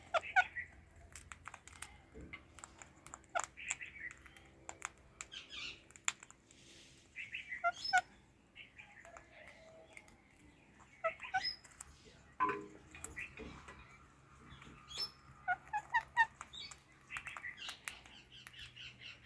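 Indian ringneck and Alexandrine parakeets chirping and chattering in repeated short bursts of quick high notes, with scattered sharp clicks between them.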